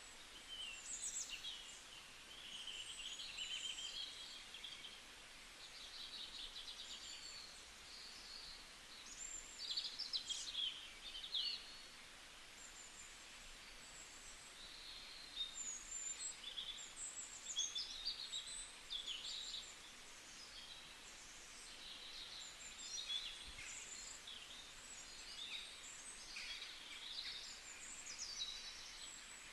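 Birds chirping and singing: many short, high calls and glides overlapping one another, over a faint steady background hiss.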